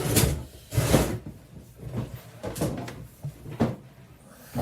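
Handling noise as a sifter and containers of tumbled brass cases are moved about: a few separate knocks and rattles, loudest near the start and about a second in.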